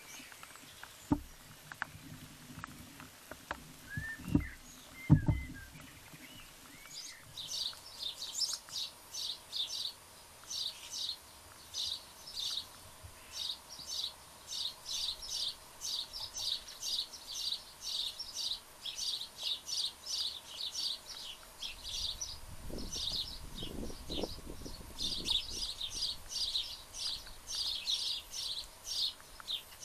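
A small garden bird chirping over and over, two or three short high chirps a second, from about seven seconds in. A few dull thumps come in the first few seconds, and a low rumble about two-thirds of the way through.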